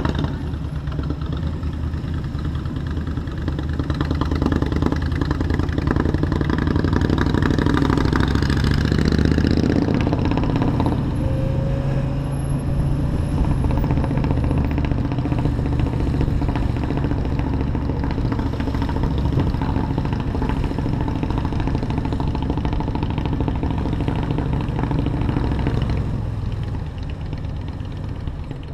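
Motorcycle engine running as the bike rides through city streets. It grows louder a few seconds in and eases off near the end.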